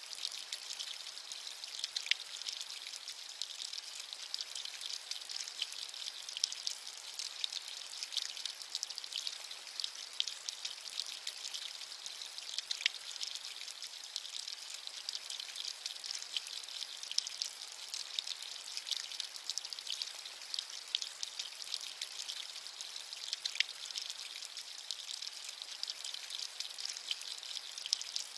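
Steady rain: a continuous high hiss of fine raindrops with many small pattering ticks and an occasional sharper drop.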